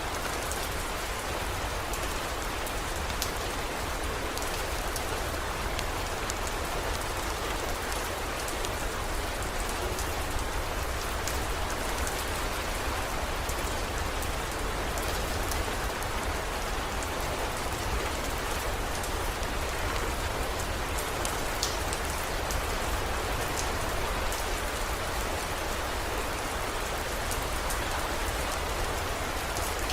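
Steady heavy rain falling and pattering on surfaces, with scattered sharper drop ticks.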